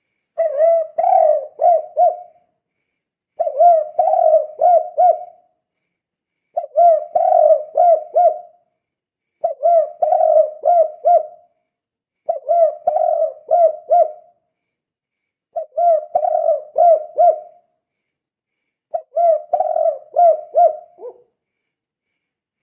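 Spotted dove (tekukur) cooing: seven repeated phrases of several quick coo notes each, one about every three seconds. This is the song style that dove keepers call 'kuk 2'.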